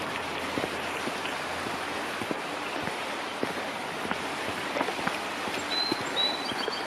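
Steady rushing of a stream, with small irregular splashes and clicks, and a few short, high bird chirps near the end.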